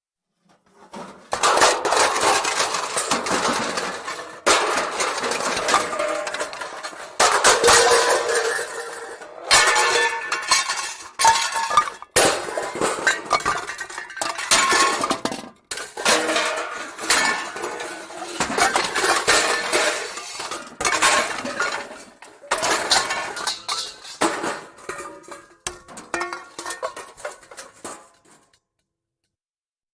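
Metal pots and pans clattering and crashing together, with clinks and ringing between rapid, irregular knocks. The clatter starts about a second in, pauses briefly a few times, and stops a little before the end.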